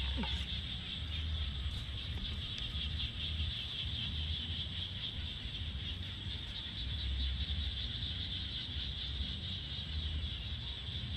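Rural outdoor ambience: a steady high-pitched drone over a low, uneven rumble.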